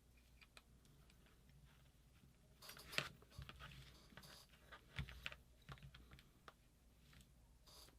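Faint, scattered clicks and taps of small metal parts and tools being handled, the loudest about three and five seconds in.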